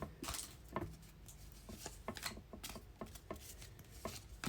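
Trading cards being flipped through by hand: a scatter of soft clicks and light rubbing as the cards slide over one another.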